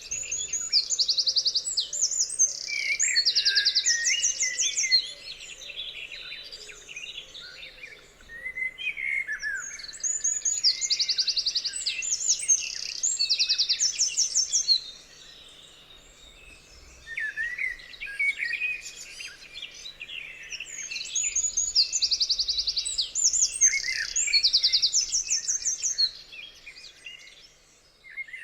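Songbirds singing and chirping, with quick rising and falling notes and fast high trills. The song comes in three similar loud bursts about ten seconds apart, with quieter chirping between them.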